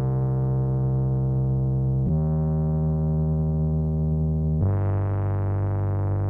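Synthesizer music: sustained chords held for a couple of seconds each, switching to a new chord twice.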